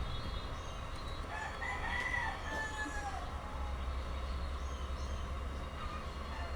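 A rooster crowing once, starting about a second in and lasting about two seconds, over a steady low hum.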